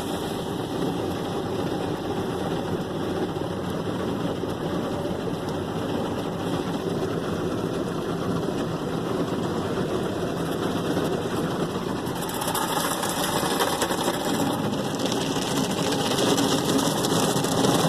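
Ryko Softgloss Maxx car wash foam brushes spinning and scrubbing over a pickup truck, heard from inside the cab: a steady rush of noise that grows a little louder and hissier about twelve seconds in.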